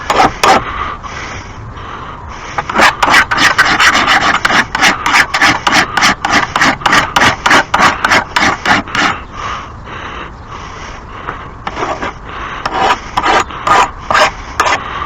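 Hand file being stroked back and forth along the edge of a steel lawn mower blade to sharpen it, in quick rasping strokes about two to three a second, pausing for a couple of seconds after the middle before starting again.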